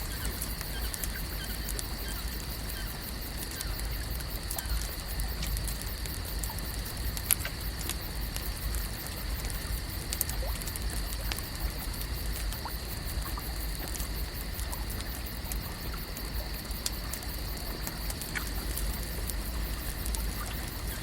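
Layered lake ambience for a night scene: a steady high-pitched chorus of night creatures, scattered small clicks and crackles, and a low rumble underneath.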